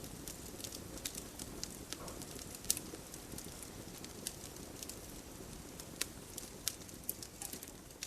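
Campfire burning steadily with a low rush of flames, and wood crackling and popping in irregular sharp snaps, the loudest about two and a half seconds in.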